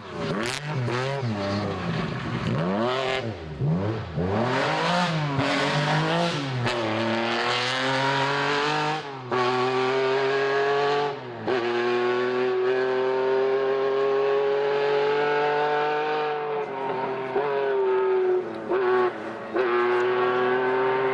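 Rally car engine at full effort on a stage: revs swinging rapidly up and down for the first several seconds, then pulling hard through the gears with brief lifts, and finally a long, steadily rising note under sustained acceleration.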